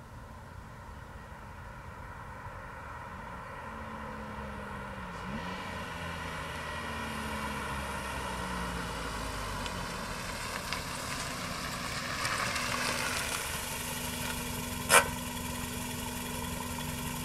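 Toyota Echo's 1NZ-FE four-cylinder running through its TRD axle-back muffler, the exhaust note getting gradually louder, its pitch rising and falling in the first half. A single sharp knock about fifteen seconds in, after which the engine runs steadily.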